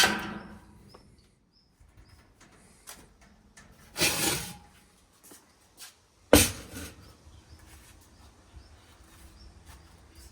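Intermittent handling noises: a rustling burst about four seconds in and a sharp knock a little after six seconds, with small clicks between.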